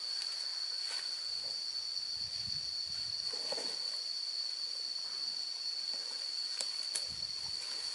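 Insects droning in one steady, unbroken high tone over a hiss, with a few faint knocks and rustles.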